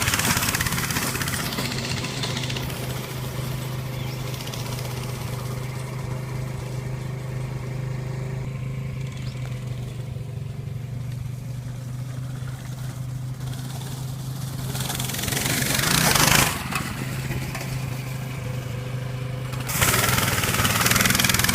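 Off-road vehicle engine running steadily with a low hum. Loud rushes of noise come in about three-quarters of the way through and again near the end.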